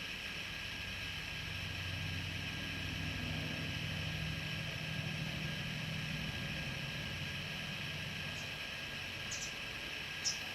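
Low hum of a motor vehicle's engine that swells and then fades, over a steady hiss. A couple of short, high chirps come near the end.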